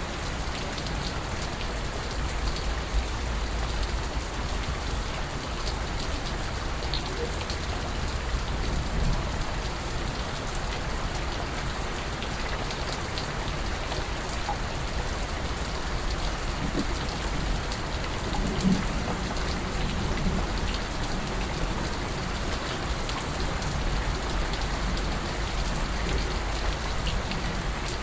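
Steady rain falling, with scattered individual drips tapping throughout and a low rumble underneath.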